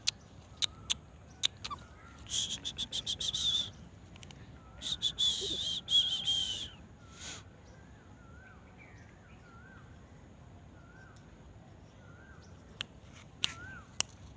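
Birds calling: two harsh, rasping calls, each about a second and a half long, stand out over a run of soft, short chirps. Sharp clicks come near the start and again near the end.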